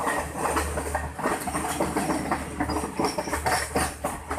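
Udarata Menike express passenger train running along the track, its wheels clattering and knocking irregularly over the rails above a steady low hum.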